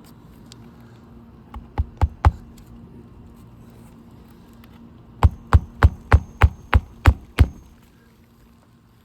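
Hammer driving a roofing nail into a shingle: three or four blows about two seconds in, then a quick run of eight even blows, about three a second.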